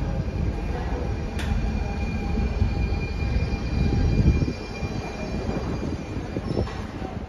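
Copenhagen S-train (DSB S-tog electric multiple unit) pulling into the platform. Its wheels rumble on the rails with a thin, steady high squeal, and there is one sharp click about a second and a half in. The rumble builds until about four seconds in, then eases.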